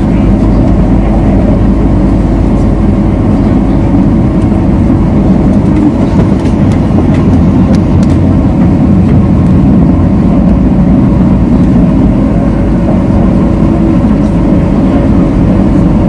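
MTR South Island Line S-Train running at speed, heard from inside the car: a steady, loud rumble of wheels on rail with a low hum from the running gear.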